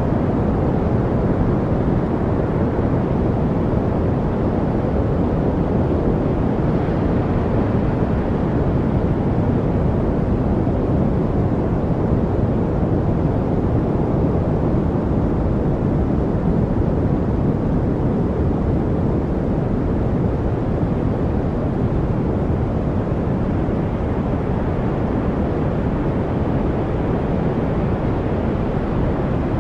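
Steady, unchanging background noise used to mask distractions: a deep, even rumble with little hiss on top.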